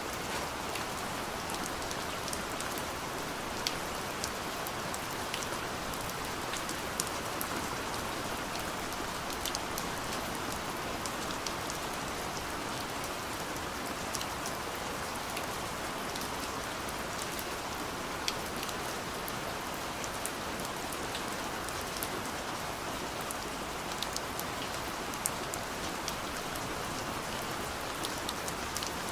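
Steady soft rain falling on a window: an even hiss with scattered sharp ticks of single drops striking the glass.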